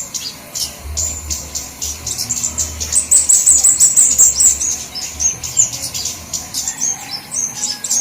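Flowerpeckers calling in a dense, fast run of high, thin chirps and ticks, several birds overlapping, as on a bird-lure call recording.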